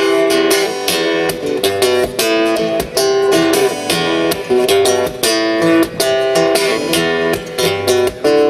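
Acoustic guitar strumming chords in a steady rhythm: an instrumental passage between sung verses of a song.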